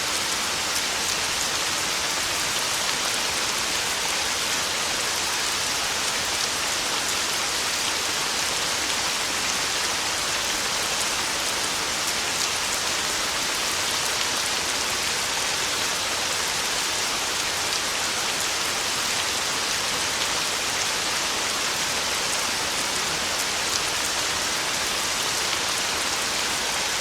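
Heavy rain falling steadily on a tin roof: a dense, even hiss peppered with fine drop ticks.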